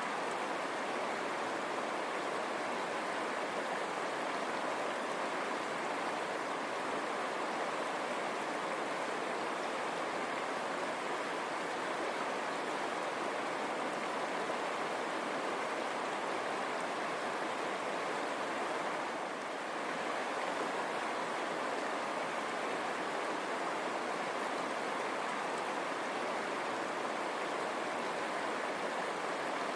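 River water running over stones: a steady, even rushing that dips briefly about two-thirds of the way through.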